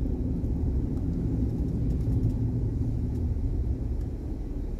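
Steady low rumble of a car driving, engine and road noise heard from inside the car.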